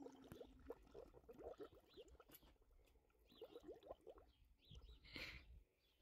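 Faint outdoor ambience with small birds chirping, short high calls repeating about once a second, and a brief rustling burst about five seconds in.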